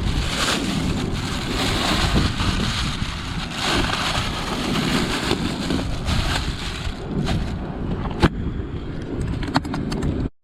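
Strong wind buffeting the microphone, a loud rumbling, surging rush with a couple of sharp clicks late on; it cuts off abruptly near the end.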